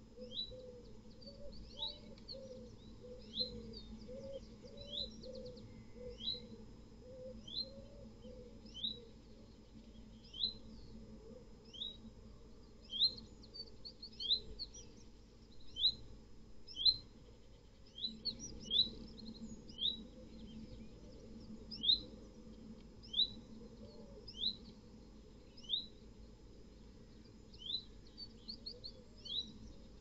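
Wild birds calling: a small bird repeats a short, high call that falls in pitch, about once a second, over softer low calls.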